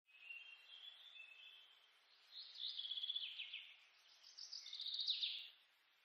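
Birds chirping: two short bursts of rapid trilled song, a little over two seconds in and again about four and a half seconds in, over fainter chirping and a soft hiss.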